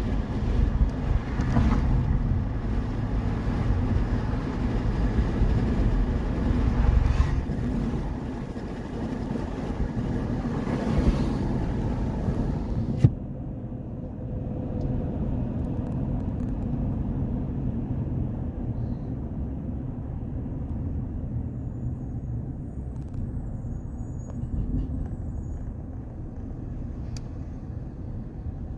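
Road traffic: a steady low rumble of vehicles running. About halfway through there is a sharp click, and after it the sound is quieter and duller.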